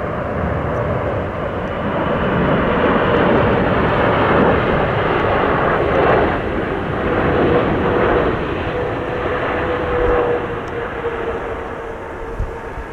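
Jet airliner on landing approach passing close. Its engine noise swells for several seconds and then eases, with a steady engine whine that drops slightly in pitch. Strong wind rumbles on the microphone throughout.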